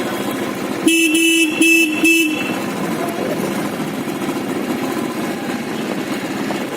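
A vehicle horn honks three short times in quick succession, over the steady drone of a motorcycle engine running.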